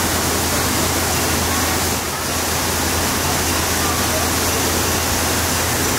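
Steady rushing of falling and splashing water from water-park attractions, with faint distant voices.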